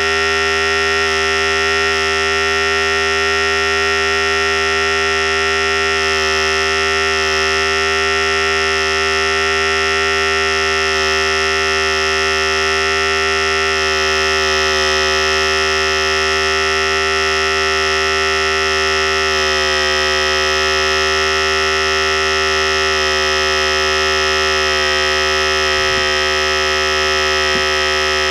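Philips Series 5000 hair clippers running steadily: a continuous electric buzz that holds its pitch.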